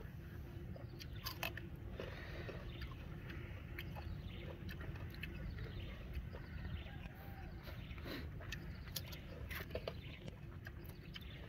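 Someone chewing and biting into shrimp close to the microphone, with scattered crunchy clicks over a steady low rumble.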